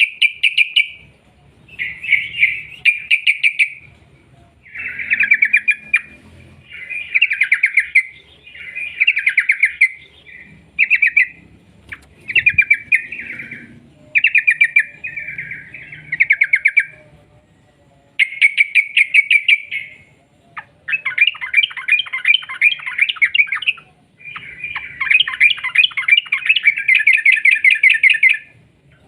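Yellow-vented bulbul (trucuk) singing its fast rolling 'ropel' song: bursts of rapid, evenly spaced bubbling notes in phrases of one to four seconds with short pauses between, running into longer unbroken phrases near the end.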